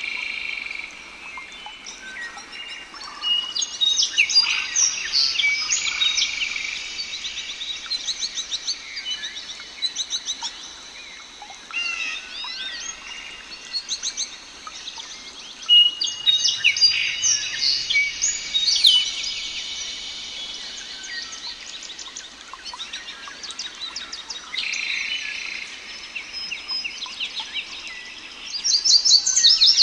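Several small songbirds singing and chirping at once, overlapping phrases of quick trills and high whistles that come in bursts and ease off between them.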